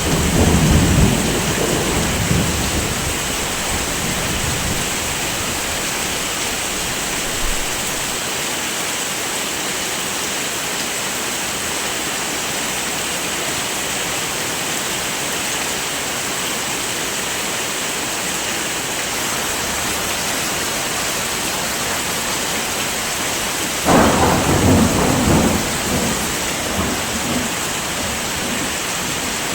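Heavy rain falling steadily, with thunder rumbling twice: once at the start, fading over a few seconds, and again with a sudden crack-like onset about 24 seconds in, rumbling off over two or three seconds.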